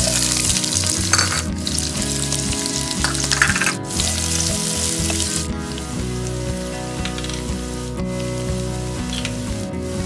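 Sliced shallots and garlic hitting hot oil in a wok and frying: a loud sizzle at first that settles to a quieter, steady sizzle about halfway through.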